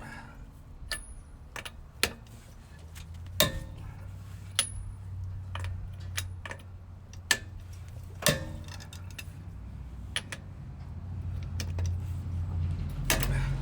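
Hand tools clinking and clanking against the car's steel suspension parts, in scattered single strikes with a louder clank near the end, over a steady low hum.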